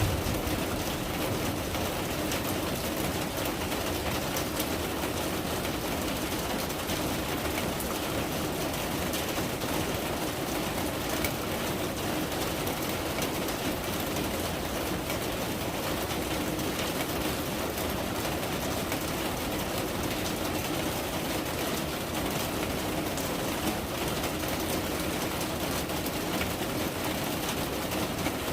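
Steady rain falling, an even hiss with a dense patter of drops.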